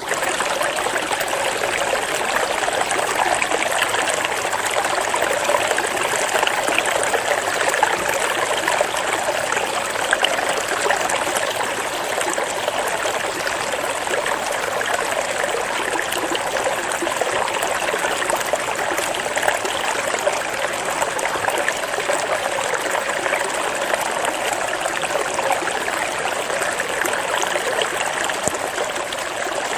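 Flowing stream water, a steady babbling and trickling rush.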